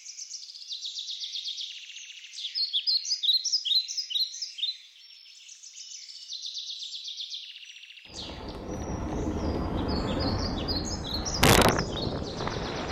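Songbirds singing rapid trills and repeated chirps. About eight seconds in, a steady low rushing noise comes in under the birds, with one sharp click near the end.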